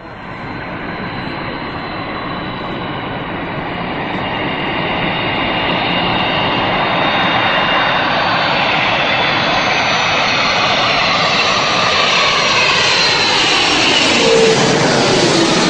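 Jet airliner's engines on approach, the noise swelling steadily louder with a high whine that slowly falls. The pitch drops near the end as the aircraft passes close by.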